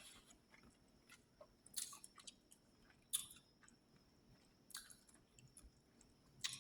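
Faint close-up chewing and mouth sounds of a person eating, with four short wet crackly bursts about a second and a half apart.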